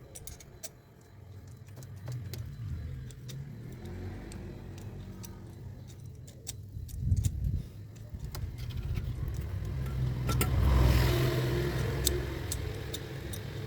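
A car engine running with a steady low hum that swells louder for a second or two about ten seconds in, with light metallic clinks of tools scattered throughout.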